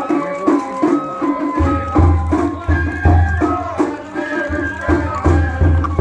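Japanese festival hayashi music from a float: drums beating a steady rhythm of several strokes a second, with deep booming passages, under a high held melody line that steps from note to note.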